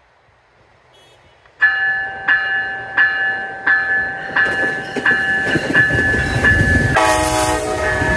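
Nathan K5LA five-chime air horn on a GO Transit train sounding a string of loud short blasts, about one and a half a second, over the rumble of the approaching train. About seven seconds in, a brief lower-pitched multi-tone sound takes over for half a second before the blasts resume.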